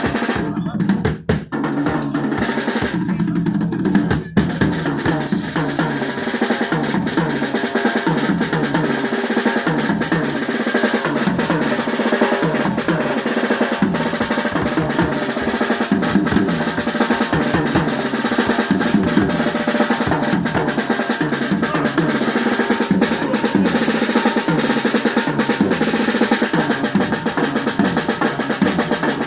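A live band playing, led by a drum kit with snare rolls and bass drum beating continuously.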